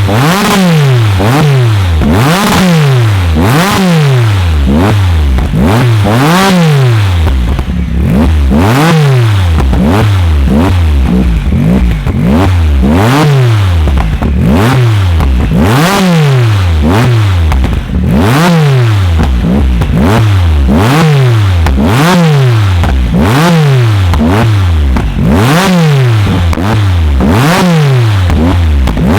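Tuned car engine revved hard over and over while standing, its pitch climbing and dropping about every two seconds, with sharp cracks and pops from the exhaust.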